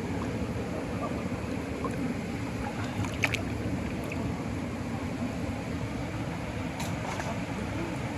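A steady low engine rumble, with a brief sharp click about three seconds in and a fainter one near the end.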